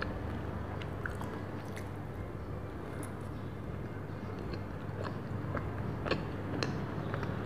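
Close-miked biting and chewing of a soft cream-filled donut, with scattered small wet mouth clicks that come more often in the last couple of seconds, over a steady low hum.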